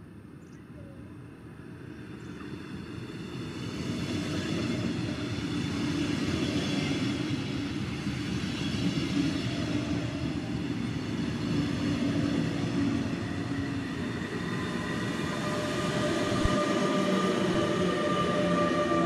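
A train passing on the line: the rumble of wheels on track builds over the first few seconds and then holds loud and steady, with several steady ringing tones rising above it in the last few seconds.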